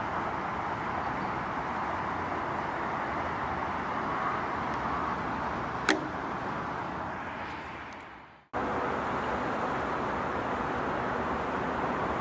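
Small handheld battery fan running with a steady whir. A sharp click about six seconds in, then the whir dies away over about two seconds and comes back suddenly at full level.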